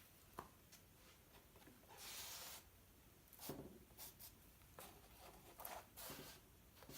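Near silence with faint, scattered taps and rustles from paint cups being handled while acrylic paint is poured, and a brief soft rush of noise about two seconds in.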